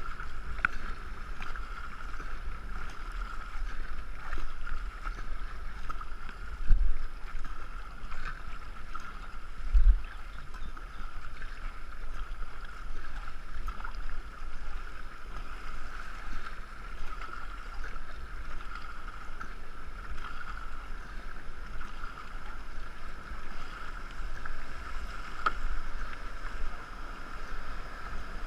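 A canoe being paddled down a river, heard from a camera mounted on the boat: a steady rush of water and wind on the microphone, with two low thumps a few seconds apart in the first half.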